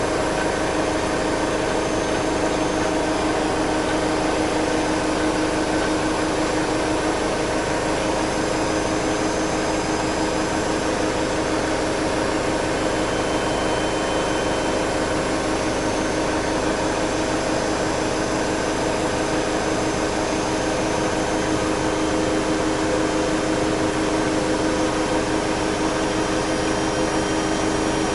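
Bosch Maxx Special WFL 248Y front-loading washing machine running at steady high speed, most likely in a spin: a constant motor whine over an even rushing noise.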